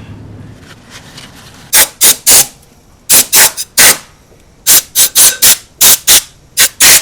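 A dozen or so short, sharp blasts of compressed air, coming in quick clusters, blowing aluminum drilling shavings out of the valve cover's bolt holes and spark plug well.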